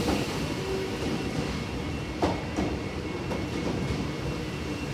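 Suburban electric train cars rolling past on the tracks, a steady rumble with several sharp clicks as the wheels cross rail joints.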